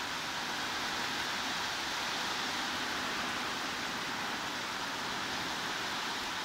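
Heavy rain as a steady, even hiss, with no single drops or other events standing out.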